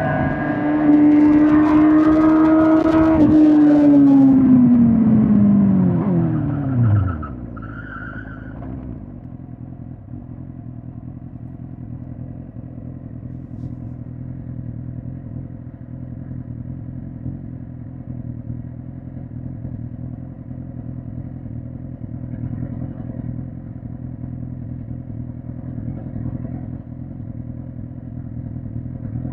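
2005 Suzuki GSX-R1000 K5's inline-four engine held at steady high revs, then falling in pitch over about three seconds as the bike slows, and settling to a low, steady idle for the rest. A short high squeal comes just after it drops to idle.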